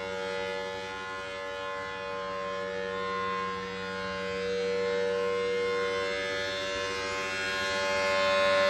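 Large outdoor warning siren sounding a steady tone at full pitch, several tones together, swelling and fading gently in loudness.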